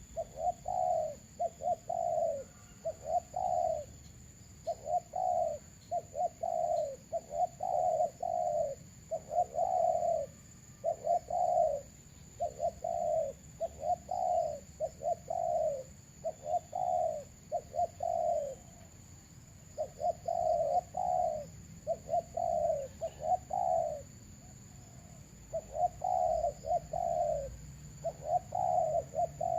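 Doves cooing over and over: short notes that fall in pitch, in quick groups of two to four, with brief pauses between runs. A steady faint high whine runs underneath.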